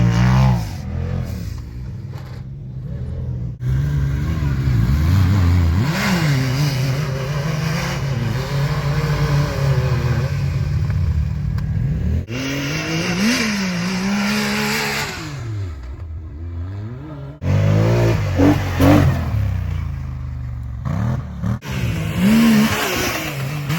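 Side-by-side (UTV) engines revving up and down as the machines accelerate and let off, in a string of short clips with abrupt cuts between them.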